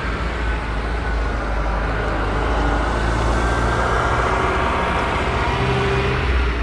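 Road traffic passing along a street: a continuous low rumble with a faint whine that swells a little past the middle.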